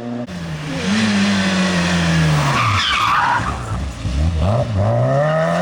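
Rally car braking into a corner, engine revs falling, tyres skidding briefly about three seconds in, then the engine revving up again as it accelerates away.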